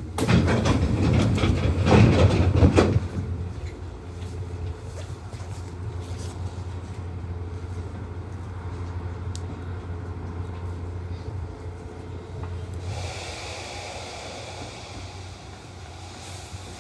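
Nishitetsu 600 series electric train: a loud rattling clatter for about the first three seconds, then a steady low hum, with a hiss setting in about 13 seconds in.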